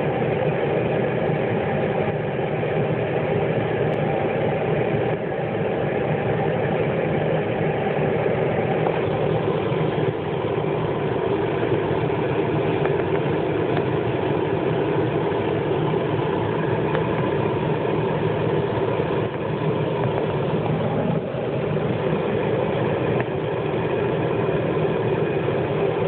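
Car engine idling steadily, heard from inside the parked car's cabin.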